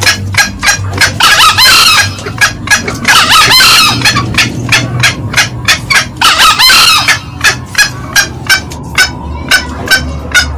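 Green junglefowl calling: a fast run of short, sharp cackling notes, several a second, with three longer, louder calls about a second, three seconds and six seconds in.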